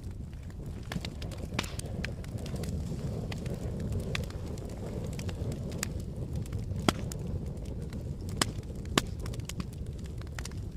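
Campfire burning with a low steady rumble and scattered sharp crackles and pops, the loudest three pops coming in the second half.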